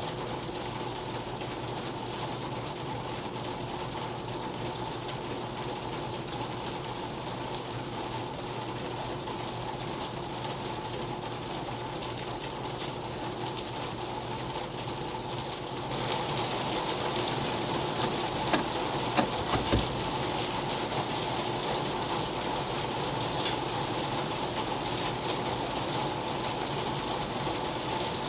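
Steady rain falling. About halfway through it turns brighter and a little louder, and a few sharp taps of drops follow.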